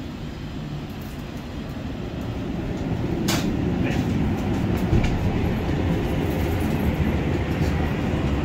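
Steady low rumble from a stopped Metro light-rail car, growing louder about two seconds in, with a single sharp click a little after three seconds.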